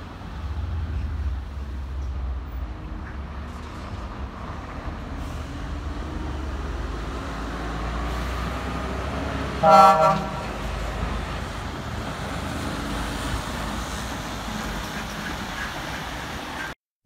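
A truck on the road with a steady low engine and road rumble, and a single short vehicle-horn toot about ten seconds in.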